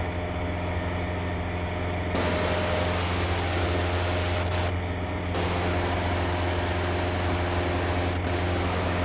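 A Cessna 152's four-cylinder engine and propeller droning steadily in flight, heard inside the cabin. A rushing hiss lies over the drone and swells and dips a few times.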